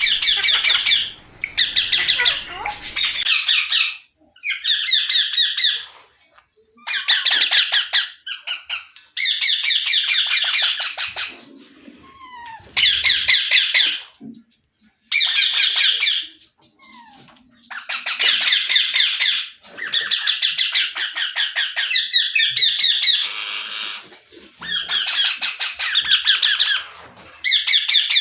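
Rose-ringed (Indian ringneck) parakeet screeching in repeated bursts of rapid, harsh calls, each burst a second or two long with short pauses between.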